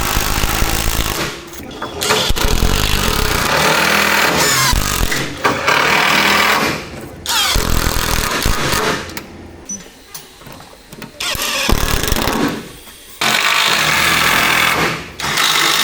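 Power tool working wood in several bursts of a few seconds each, cutting out briefly between them.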